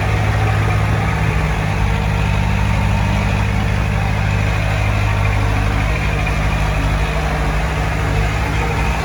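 Heavy-equipment diesel engine running steadily, a low, even rumble that holds without a clear rev-up or pause.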